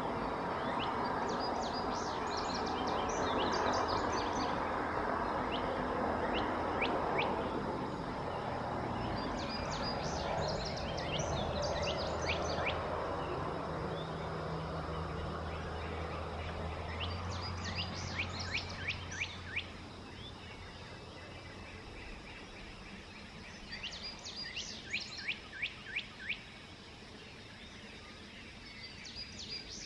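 A songbird singing a phrase of rapid, down-slurred high notes, repeated about every seven seconds, over a broad outdoor rumble that fades about two-thirds of the way through.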